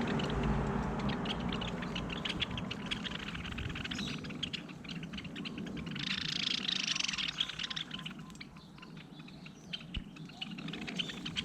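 Small birds chirping in many quick, short calls, with a denser run of song about six to seven and a half seconds in, over a low background rumble that fades during the first few seconds.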